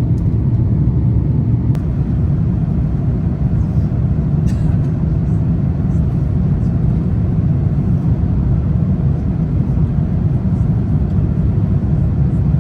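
Steady low rumble of an Airbus A350-900's Rolls-Royce Trent XWB engines and the airflow, heard inside the cabin from a window seat, with a couple of faint clicks in the cabin.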